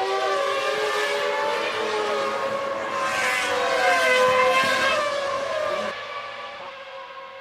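Several 1999 Formula One cars' 3.0-litre V10 engines at high revs, their pitches rising and falling as they change gear and pass. The sound is loudest a little past the middle, then drops away suddenly about six seconds in, leaving fainter engine notes.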